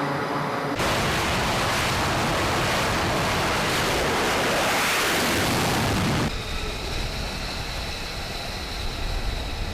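Loud, steady rush of wind and sea noise that starts abruptly and cuts down suddenly about six seconds in to a quieter hiss with a faint steady hum.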